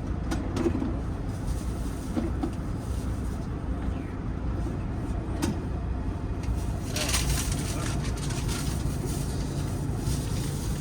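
Engine idling with a steady low rumble, with a few sharp clicks and knocks. About seven seconds in, a second steady hum joins with a burst of rustling.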